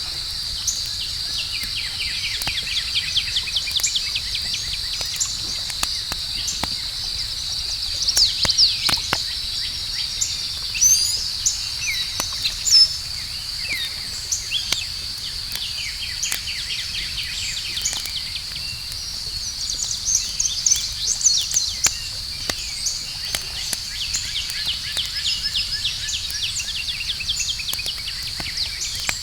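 Campfire crackling, with scattered sharp pops, over a steady high-pitched insect chorus and chirping birds.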